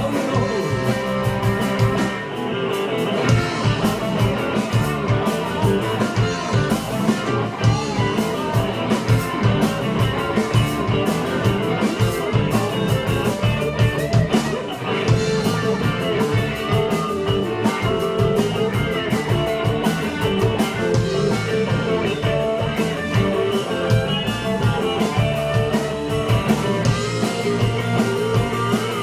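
A rock band playing live: an instrumental passage led by guitar over a steady drum beat.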